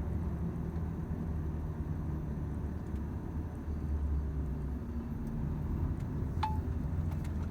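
Volvo FH 500 truck's straight-six diesel running steadily on the road, a low drone heard inside the cab. A few faint clicks, and one short sharp tick about six and a half seconds in.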